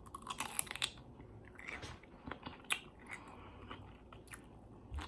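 A person chewing and biting food close to the microphone, with irregular crisp crunches and small mouth clicks.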